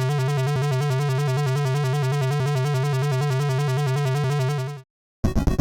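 Synthesized 8-bit-style electronic sound: a steady low tone under a fast, evenly repeating warble. It cuts off suddenly near the end, and after a brief silence a different pulsing synth sound starts.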